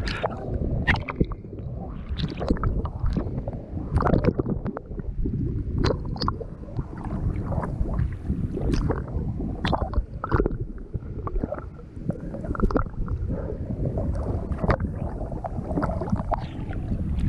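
Water sloshing, gurgling and splashing close against a GoPro, with frequent irregular slaps.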